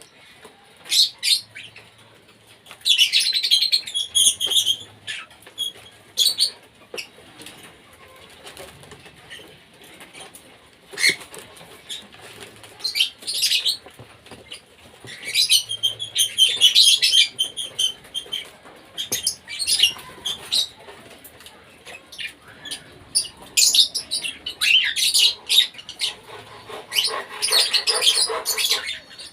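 Cockatiels in a colony cage calling in repeated bursts of high, sharp chirps and screeches, with quieter spells of a few seconds between the bursts.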